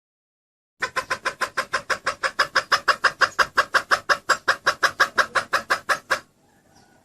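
Female junglefowl (hen) clucking in a fast, even run of about six clucks a second for about five seconds, starting just under a second in. This is the call played to lure a junglefowl rooster in.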